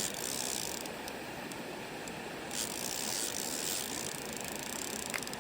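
Fishing reel being cranked steadily, its gears giving a fast, continuous ratcheting whir as the lure is retrieved.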